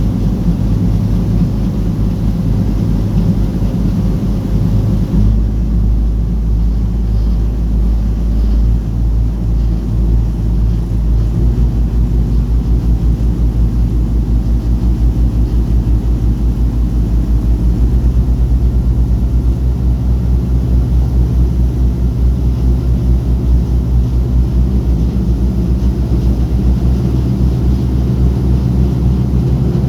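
Diesel engine of a small passenger ferry running steadily with a deep, evenly pulsing throb; the engine note shifts about five seconds in.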